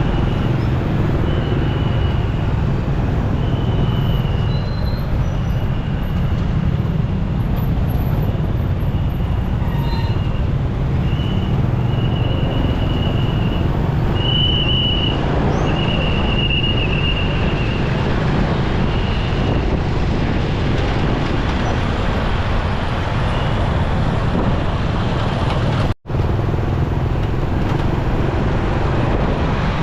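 Riding a motorcycle in city traffic: steady engine and road noise with a heavy low rumble. A thin high tone comes and goes for the first twenty-odd seconds, and the sound cuts out for an instant about 26 seconds in.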